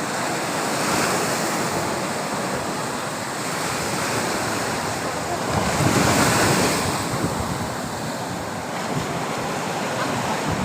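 Sea surf washing onto a beach, a steady rush of breaking waves that swells louder as a wave crashes about six seconds in, with wind on the microphone.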